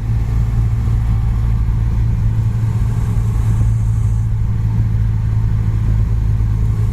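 Cessna 172's piston engine and propeller running at low power while the aircraft taxis off the runway after landing: a steady, unbroken low drone.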